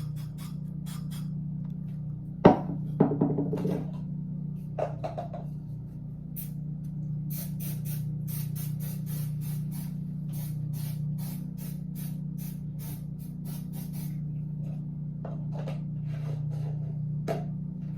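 ASMR triggers: rapid series of short, sharp hisses, about two to three a second, over a steady low hum. A sharp click about two and a half seconds in is followed by a second of crinkly rustling.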